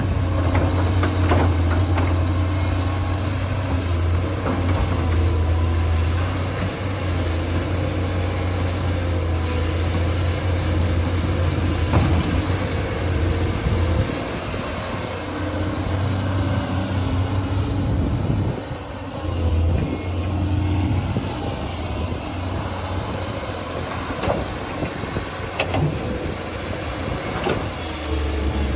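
Tractor engine running steadily, a continuous low drone, with a few sharp knocks along the way.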